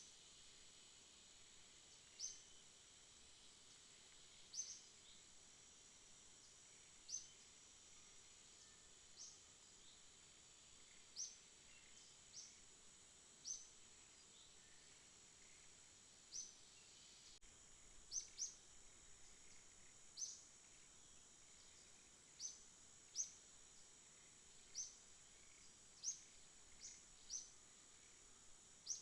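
Night insect chorus: a faint, steady, high-pitched trill of crickets, with short, sharp high chirps repeating irregularly about every second or two.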